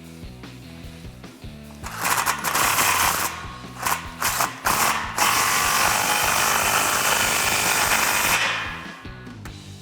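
Power tool driving a 15 mm socket, tightening the nuts on exhaust clamps. It runs in a few short bursts, then once for about three seconds before dying away, over background music.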